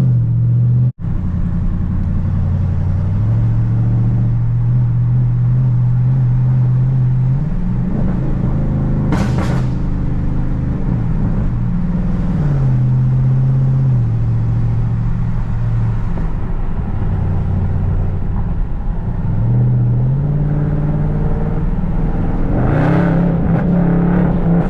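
Tuned Dodge Charger Scat Pack's 392 HEMI V8 running under way, its low drone holding steady at cruise and rising and falling several times as the throttle and gears change. The sound cuts out for an instant about a second in, and two brief bursts of hissy noise come through around ten seconds in and near the end.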